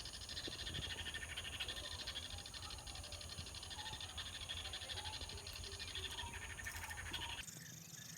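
Animal chorus: a continuous, fast-pulsing high buzz with faint short chirps under it. About seven seconds in it cuts abruptly to a quieter background.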